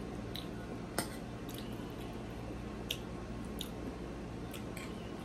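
A person chewing fried pork chop close to the microphone, with wet squishy mouth sounds and a few short sharp clicks scattered through, the loudest about a second in. A steady low hum runs beneath.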